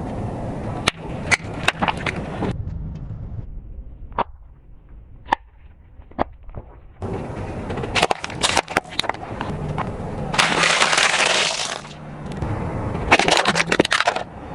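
Car tyre rolling over and crushing brittle objects: bursts of crunching and crackling with sharp cracks, and a quieter stretch in the middle with only a few single snaps.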